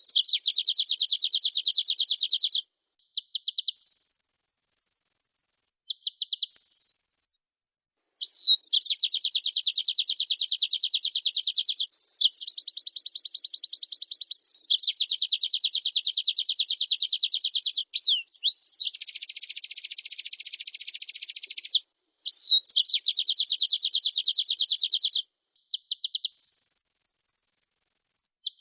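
White-eye (pleci) singing in its full, vigorous form: long, very rapid trills alternating with short, very high buzzy phrases, each lasting one to three seconds with brief pauses between them.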